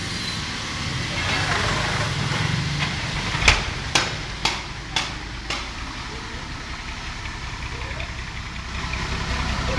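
Truck engine running at low revs while the truck is backed up, with five sharp knocks about half a second apart near the middle.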